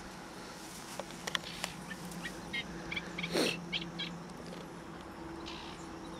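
Birds calling in short chirps, with a few sharp clicks and one louder rising call about three and a half seconds in, over a faint steady low hum.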